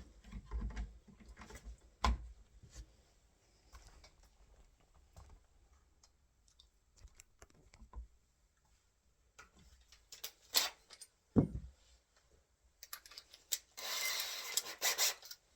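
Door handle hardware being handled: scattered metal clicks and knocks as the cover plate is worked off the handle, with a brief rasping scrape about a second and a half long near the end.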